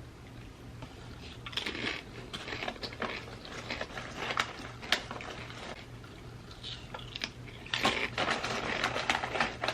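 Crisp chips being bitten and chewed close to the microphone: crunching in bouts around two seconds in, again around four to five seconds, and a denser bout near the end.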